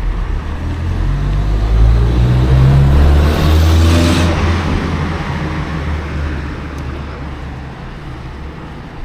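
A motor vehicle passing by: its engine note rises as it approaches, its sound peaks about four seconds in, then it fades away.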